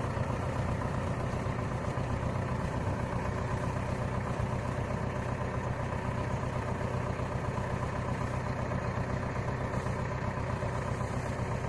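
Tractor's diesel engine running steadily at an even speed, a constant low hum with no change.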